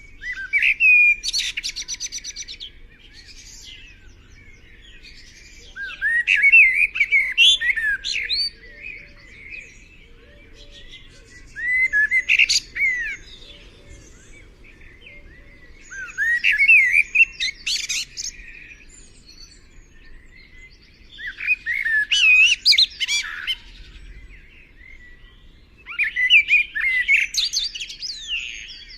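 A songbird singing: six rich, warbling phrases of quick sweeping notes, each two to three seconds long, repeated about every five seconds.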